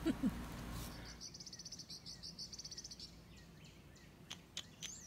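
A small songbird singing a rapid trill of evenly repeated high notes, about ten a second, for about two seconds, followed near the end by a couple of faint clicks and a short falling chirp.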